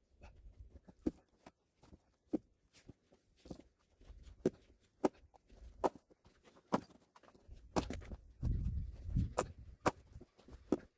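Irregular sharp wooden knocks and clacks, roughly one or two a second, of firewood pieces being handled and knocking together, with a brief low rumble a little past the middle.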